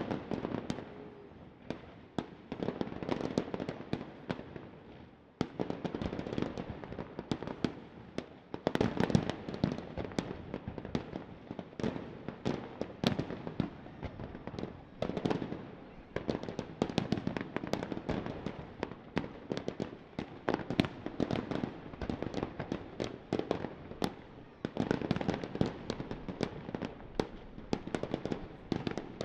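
Fireworks display going off: a dense, continuous barrage of shell bursts, bangs and crackling, with a brief lull about five seconds in.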